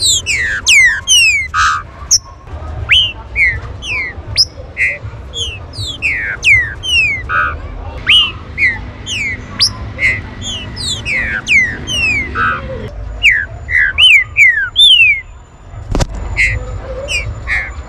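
Green-winged saltators calling: a dense, busy run of short, sharp, downward-slurred whistles, several birds overlapping, over a low background rumble. A single knock sounds near the end.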